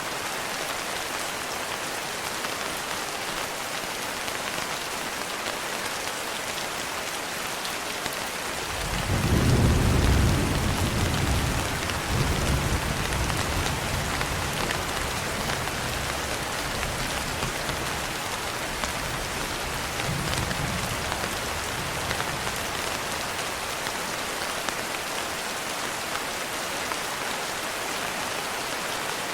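Steady rain with a roll of thunder: a low rumble comes in about a third of the way through, peaks quickly, then rolls on and fades over several seconds, swelling once more briefly before dying away under the rain.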